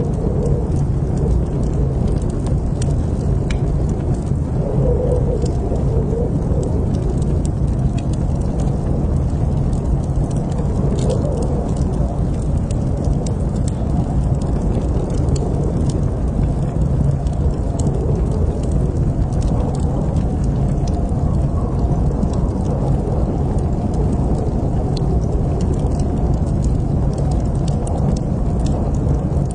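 Wood fire in a fireplace crackling, with many small scattered pops over a steady low rumble.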